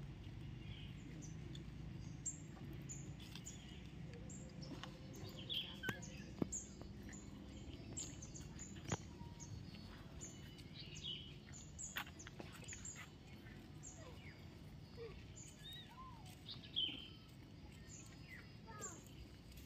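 Birds chirping and calling: many short high chirps and a few quick falling whistles scattered throughout, with a few sharp clicks and a low hum that fades out in the first few seconds.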